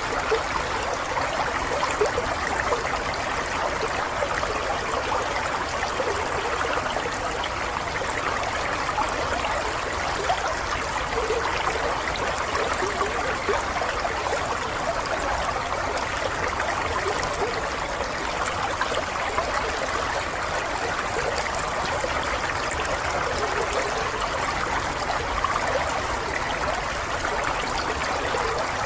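Water running steadily in a stream, a continuous babbling trickle without pause.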